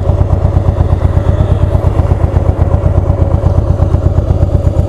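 Harley-Davidson Heritage Softail's Twin Cam V-twin engine idling with a steady, pulsing low rumble and no revving.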